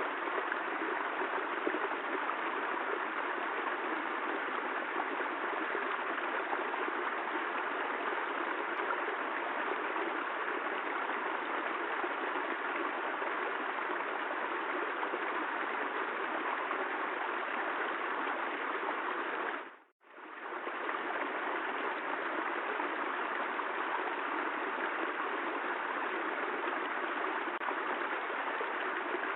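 Steady rushing water noise, a continuous even hiss of rain-like water sound. About twenty seconds in it fades out almost to nothing and fades straight back in.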